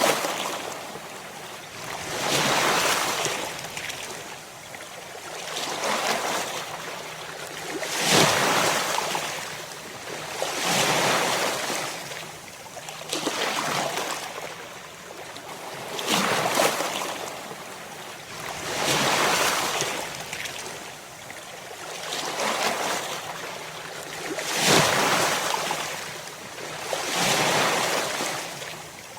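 Ocean waves breaking: a wash of surf that swells and fades about every two and a half to three seconds, some waves landing with a sharper crash.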